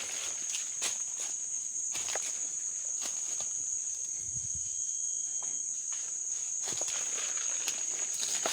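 Irregular footsteps through forest undergrowth over a steady, high-pitched insect drone.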